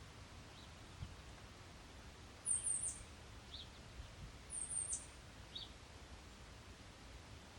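High, thin bird calls: a quick cluster of short falling notes about two and a half seconds in and again near five seconds, with fainter, lower single notes between them, over a steady outdoor hiss.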